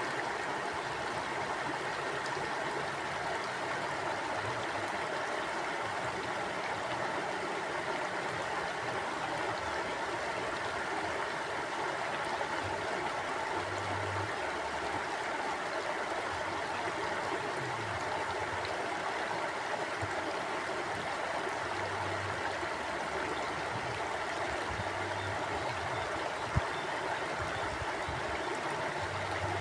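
River water flowing steadily over rocks, an even rushing and gurgling, with a faint low thud now and then and a single sharp click about three-quarters of the way through.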